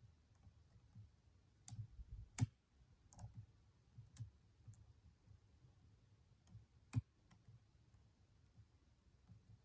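Faint, irregular clicks of a lock pick working the pin tumblers in the keyway of a Stanley padlock, with two sharper clicks about two and a half and seven seconds in.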